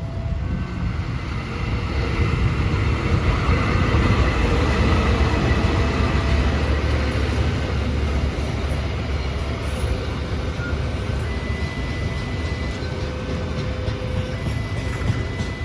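Train passing close by: a heavy rumble of wheels on rails that swells about two seconds in and then holds steady, with faint thin squeals of the wheels later on.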